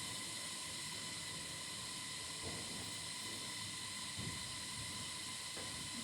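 Steady hiss with a faint, even high whine, broken by a few soft low bumps about two and a half and four seconds in.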